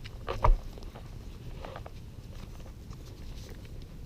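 A single loud thump about half a second in, then soft scattered steps and rustling.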